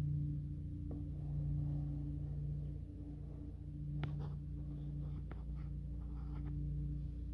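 A steady low hum on two fixed pitches, with a few faint sharp clicks and light scratching sounds about a second in and again around four to five seconds in.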